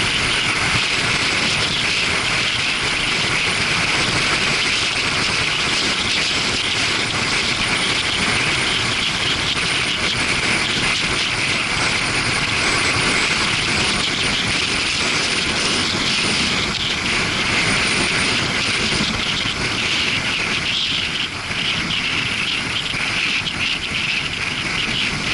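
Steady rushing wind noise on a motorcycle-mounted action camera's microphone while riding at speed, with the Suzuki GW250 Inazuma's engine running underneath.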